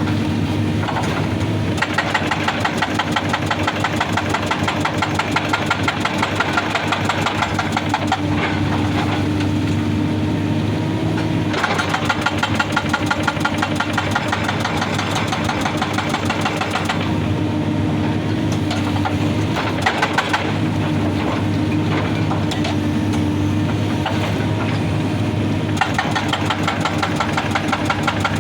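Excavator's hydraulic rock breaker hammering rock with rapid, steady blows in three long spells, each several seconds long, over the excavator's diesel engine running steadily. Between the spells only the engine is heard.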